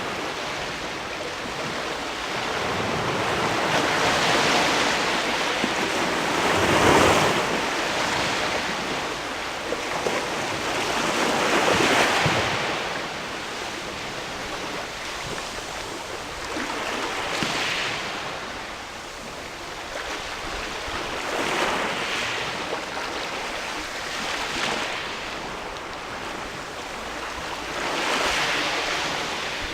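Sea waves washing against a rocky shore, surging and draining back in swells every few seconds, with the two biggest surges in the first half.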